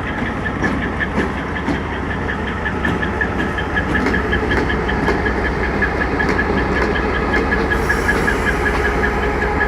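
Diesel locomotive engines running: a steady low rumble with a fast, even ticking, growing slightly louder a few seconds in.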